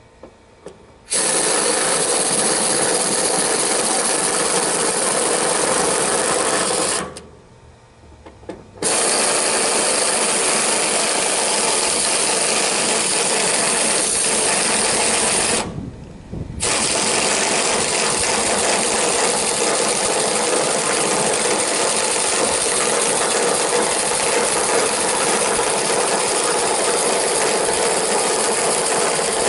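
A power tool running in long steady stretches, with a pause of about two seconds near the quarter mark and a brief stop about halfway through.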